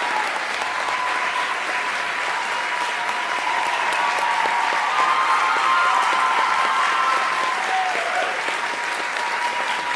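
Audience applauding steadily, with a few voices rising over the clapping.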